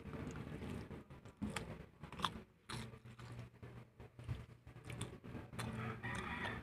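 A person biting into and chewing fried chicken, with a string of short sharp crunches and mouth noises.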